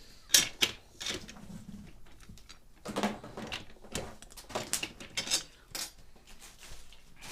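Irregular clicks, clinks and knocks of hard parts being handled and fitted while an oil-filled radiator is assembled, the sharpest about half a second in and a cluster around three seconds.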